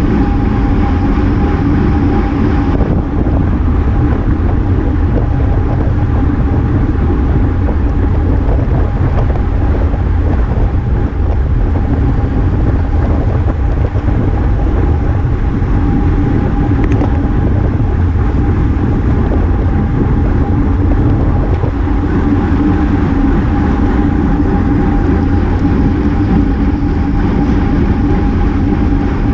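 Steady wind rush and road noise on a GoPro riding on a road bike at race speed, with a constant hum running through.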